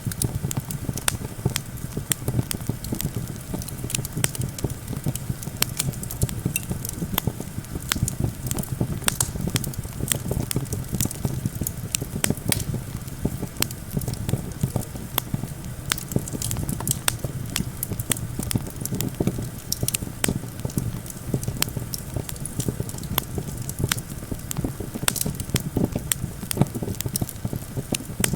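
Wood campfire crackling, with frequent sharp pops throughout, over a steady low rumble of wind.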